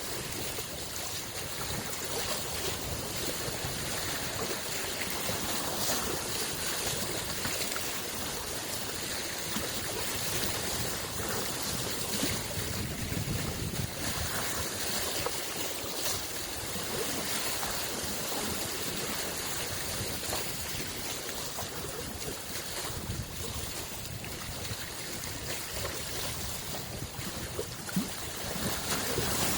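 Small lake waves lapping at the shoreline: a steady wash of water with many little splashes and trickles, and no large breakers.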